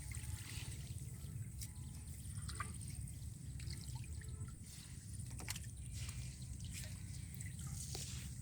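Water trickling and dripping, with scattered small splashes and drips, over a steady low rumble.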